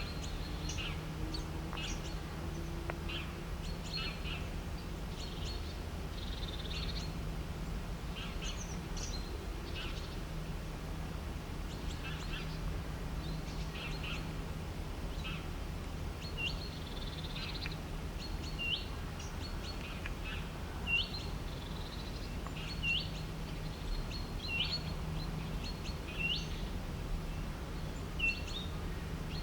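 Birds chirping and calling, with many short high notes throughout. In the second half one bird repeats the same short call, ending in a quick upward hook, about every two seconds. A steady low hum runs underneath.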